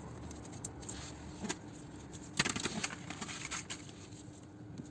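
Light handling noises from work on the car: scattered small clicks and a brief rustling scrape about two and a half seconds in, over a faint steady hum.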